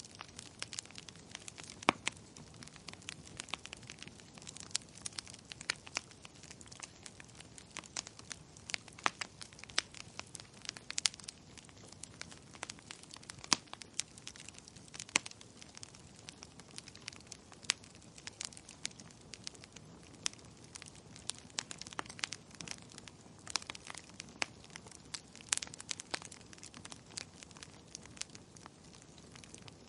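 Burning wood fire crackling, with frequent irregular sharp pops and snaps over a low, steady hiss of the flames.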